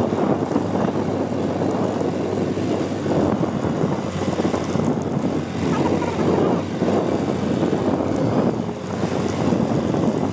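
Motorcycle running steadily on the move, its engine hum under heavy wind buffeting on the microphone.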